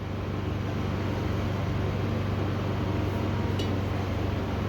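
A steady low machine hum with a stack of even tones, strongest in the bass, holding level throughout, with one small click about three and a half seconds in.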